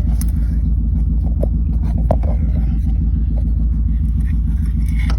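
Steady low rumble throughout, with a few faint clicks and knocks of a replacement starter motor being worked sideways into place under the car.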